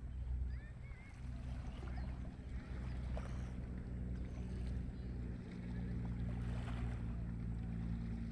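Steady low drone of a ship's engine, running evenly with no change in pitch.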